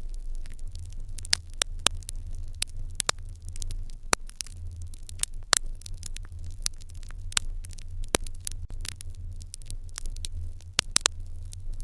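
Open fire crackling, with sharp irregular pops several times a second over a steady low rumble.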